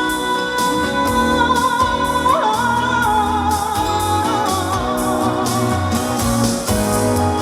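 Pop ballad backing music with a steady beat. Over it, a woman's voice holds long notes without words, first flat, then sliding up about two seconds in and wavering with vibrato.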